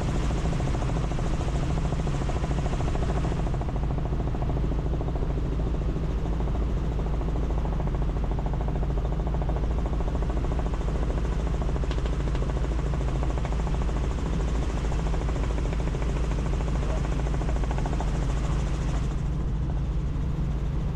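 Helicopter engine and rotor running steadily in flight, heard from inside the cabin: a constant low drone with the fast beat of the blades. A higher hiss is stronger for the first few seconds, then eases.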